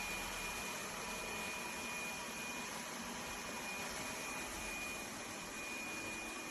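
Lefant M1 robot vacuum running, a steady whirring hiss with a faint, thin high whine held throughout.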